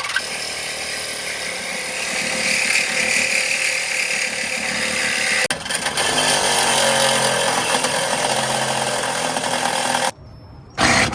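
A power tool running loudly and steadily, briefly stopping about five and a half seconds in and cutting out shortly before the end.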